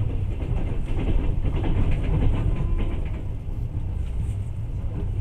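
Passenger train in motion, heard from inside the carriage: a steady low rumble with rattling and clicking, busiest in the first three seconds.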